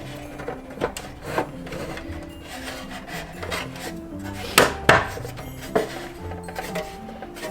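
Small plastic Sylvanian Families dollhouse parts being handled and clicked into place: a few sharp clicks, the loudest two close together about halfway through, over background music with a steady beat.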